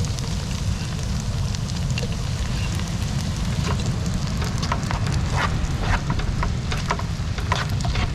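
Food sizzling and crackling in a cooking pot, with irregular sharp crackles that thicken about halfway through, over a steady wind rumble on the microphone.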